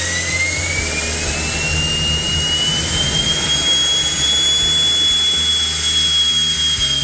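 3D-printed miniature turbine jet engine spooling up on a test stand. Its high whine rises in pitch, then holds steady at speed for the second half. Background music plays underneath.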